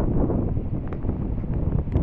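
Storm wind buffeting the microphone in a loud, low, gusty rumble, with a few faint sharp ticks.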